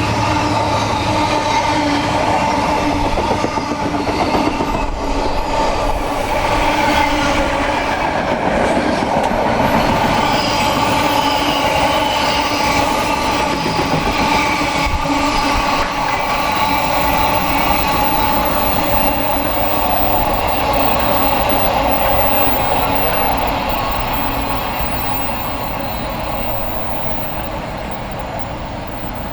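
Diesel train running past, loud and steady, with its sound slowly fading over the last few seconds.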